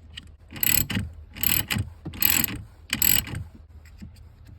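Hand ratchet clicking in four strokes, about one every 0.8 s, tightening a 13 mm bolt on a car battery's positive terminal.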